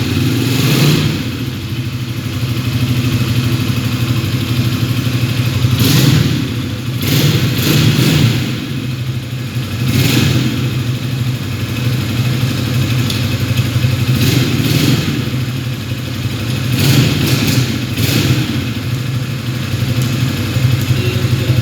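A GPX Gentleman motorcycle engine idling steadily, blipped briefly on the throttle about eight times.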